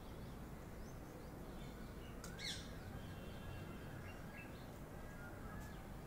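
Faint bird calls: a short call about two seconds in, then a string of soft, repeated chirps, over a low steady background rumble.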